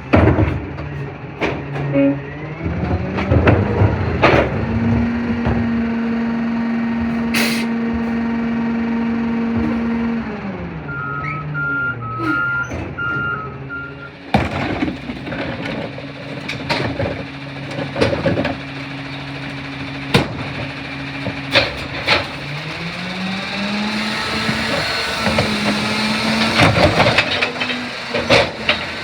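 CNG Autocar Xpeditor garbage truck with a McNeilus rear loader body: the engine revs up, holds steady for several seconds, then drops back, among knocks and clatter from the truck. A short run of reversing beeps comes partway through, and the engine revs up again near the end.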